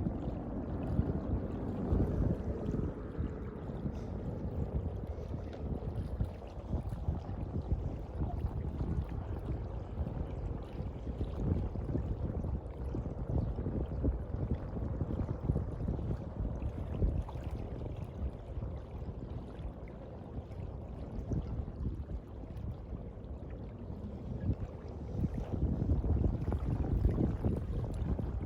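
Sea water sloshing and lapping, a steady uneven wash heaviest in the low range, with a low rumble of wind on the microphone. It swells a little near the end.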